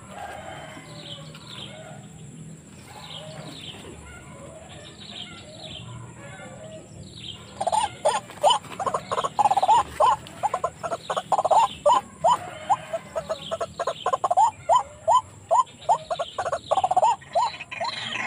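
White-breasted waterhen (ruak-ruak) calls, repeated over and over. Faint falling calls at first; about seven seconds in, a much louder, lower series of rapid calls starts, a few a second, and goes on to the end.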